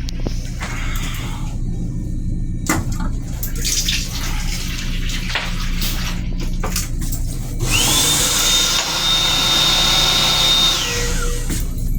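Restroom fixture in a Long Island Rail Road M7 railcar cycling: a rush of water-like noise with a high whine that rises quickly, holds for about three seconds, then falls away, about two-thirds of the way in. Underneath is the car's steady low hum with a few sharp clicks.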